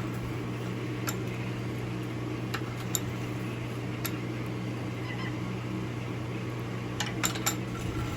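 Light metal clicks and taps of a forged steel knife blade being clamped and shifted in a vise jaw, a few scattered and a small cluster near the end, over a steady low hum.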